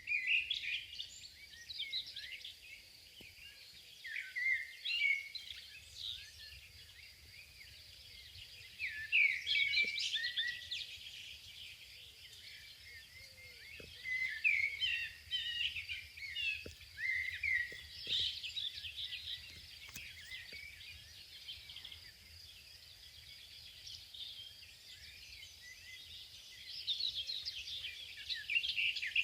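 Several wild birds singing and chirping, with runs of quick phrases that come and go every few seconds over a faint steady hiss.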